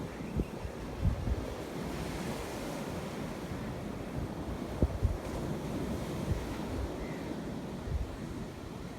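Sea surf washing steadily, with wind buffeting the microphone in low rumbles and a few short thumps, about a second in and again near the middle.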